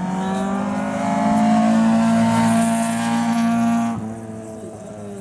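Mini Cooper roadster's four-cylinder engine pulling hard from a standing start on an autocross course, the engine note climbing and then holding under full throttle, with tyre noise rising above it. The sound cuts off suddenly about four seconds in.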